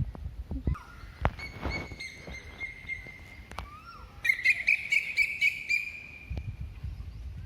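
Birdsong: clear whistled notes, then a louder, rapid trill about four seconds in, over a low rumble with a few knocks.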